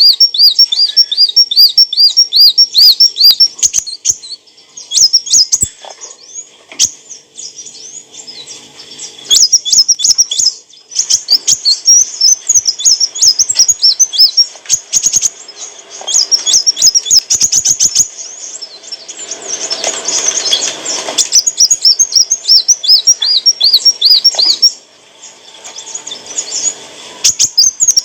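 Kolibri wulung sunbird singing: fast, high runs of repeated thin chirping notes, broken by short pauses. About two-thirds of the way through there is a brief rustling noise under the song.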